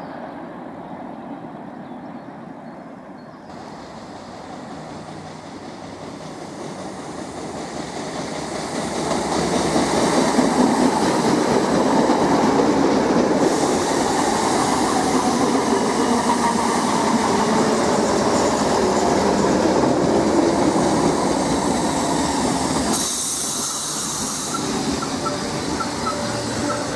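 Great Northern Class 313 electric multiple unit approaching and passing through the station, its wheels running on the rails. It grows louder over the first several seconds, stays loud through the middle and eases a little near the end.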